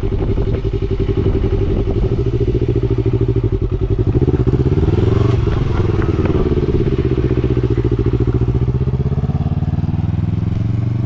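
Yamaha R3's parallel-twin engine running, its revs rising about four seconds in and easing back down over the next few seconds, heard through a helmet-mounted mic.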